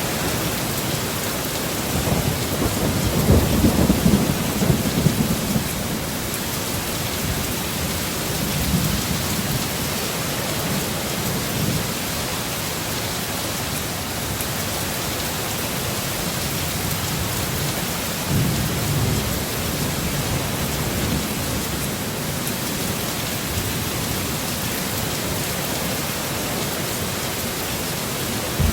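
Heavy rain falling steadily, with low rolls of thunder rumbling under it, the strongest about three to five seconds in and another about eighteen seconds in.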